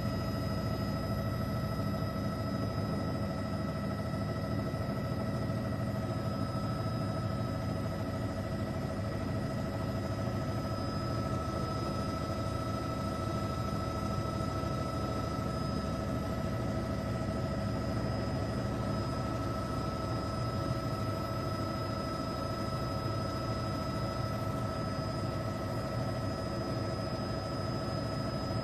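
Helicopter in flight heard from on board: a steady drone of rotor and engine with a steady whine on top.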